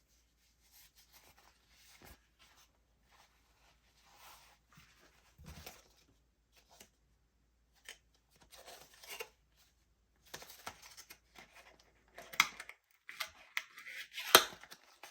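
Packaging being opened and handled by hand: scattered rustling, tearing and scraping that is faint at first, then busier and louder near the end, with a few sharper clicks about twelve and fourteen seconds in.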